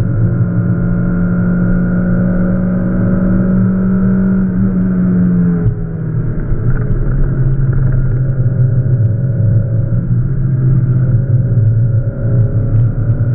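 Peugeot 306's 1.8 XU7JP4 four-cylinder engine, fitted with Jenvey individual throttle bodies, running hard on track, heard from inside the cabin. The engine note holds steady, drops suddenly a little under halfway through, then climbs slowly again as the car accelerates.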